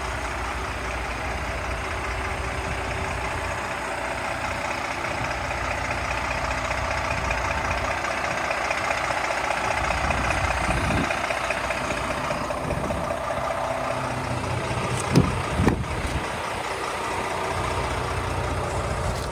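Scania R500's 13-litre inline-six diesel idling steadily. About fifteen seconds in there are two short knocks.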